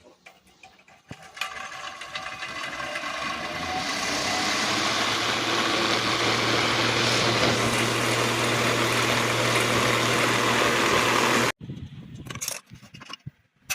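Ventilation exhaust fan switched on and running noisily: a steady motor hum under a loud whirring noise that builds over the first few seconds, holds steady, then stops abruptly near the end. The noise comes from the motor's shaft and bush, which the repairer finds badly worn.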